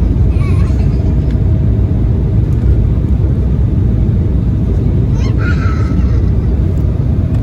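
Cabin noise inside an Embraer 195 airliner in flight: a steady, deep rumble of engines and airflow with a faint constant hum. A brief higher-pitched sound comes through about five seconds in.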